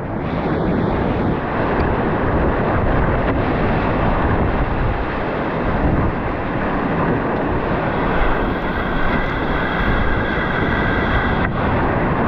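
Whitewater rapids rushing steadily, with wind buffeting on the microphone.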